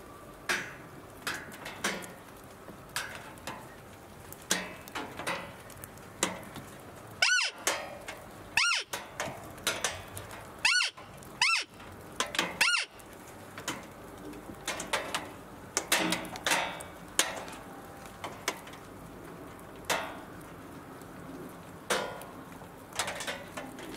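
Irregular ticks and taps of rain drops falling close to the microphone. Between about seven and thirteen seconds in come five short, high-pitched squeaky calls: roe deer fiep calls, the call imitated during the rut to draw in a buck.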